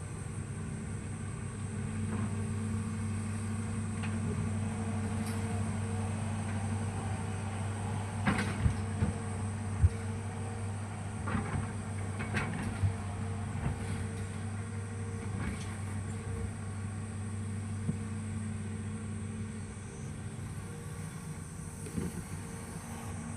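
Hitachi excavator's diesel engine running steadily at work, with a string of sharp knocks and clanks about a third of the way in and a few more later.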